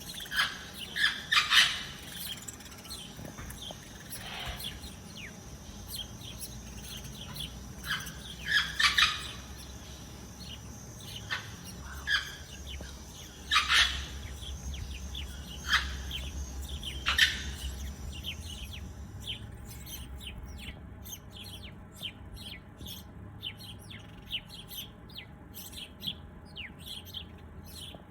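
Birds chirping in short, sharp, high notes, scattered irregularly, over a faint steady high thin tone. About two-thirds of the way through the tone drops away and the chirps come quicker and denser.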